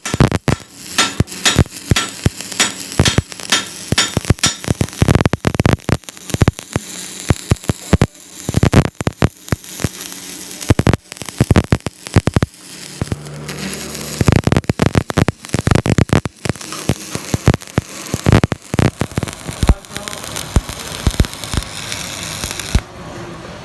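Many sharp knocks and bangs, at first evenly at about two a second and then irregular, with a brief steady hum from a machine near the middle.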